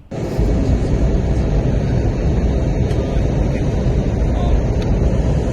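Steady cabin noise inside an airliner in flight: an even low rumble of engines and rushing air.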